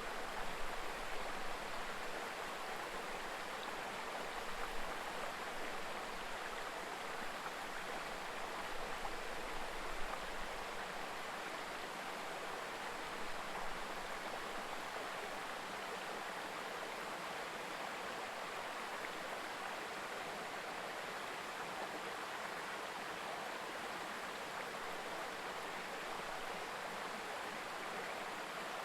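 A shallow mountain river babbling steadily, an even, continuous rush of water.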